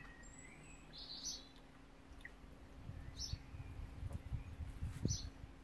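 A small bird chirping, one short high chirp about every two seconds. A low rumbling noise comes in from about three seconds in.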